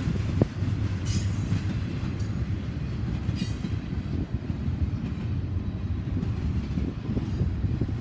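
Double-stack intermodal container well cars rolling past with a steady low rumble of wheels on rail, a sharp knock just under half a second in, and brief high-pitched wheel squeals around one and three and a half seconds in.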